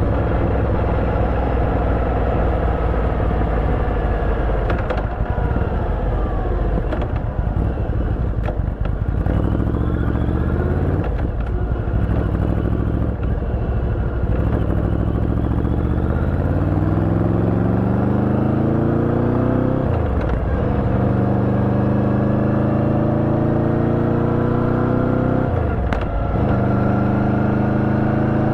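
Yamaha V-Max 1700's V4 engine through an Akrapovic exhaust with a dB-killer, running unevenly at low speed, then accelerating through the gears. The engine note climbs steadily, breaking off and dropping for an upshift three times in the second half.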